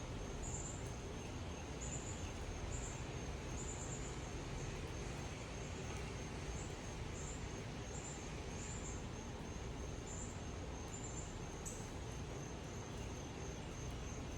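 Insects droning steadily on one high note, with short high chirps coming in irregular groups over it, against a steady outdoor hiss.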